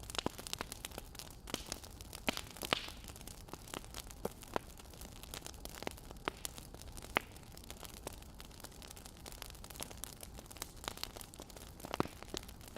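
Wood fire crackling: a soft steady hiss under irregular small pops and snaps, with a cluster of sharper pops near the start and another near the end.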